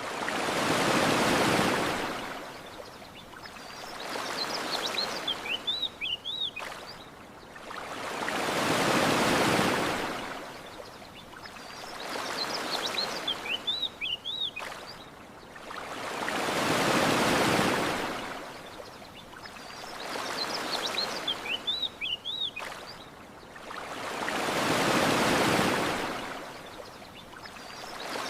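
Ocean waves washing up a beach, a big surge about every eight seconds with smaller washes between. Small birds chirp in short bursts in the lulls between surges.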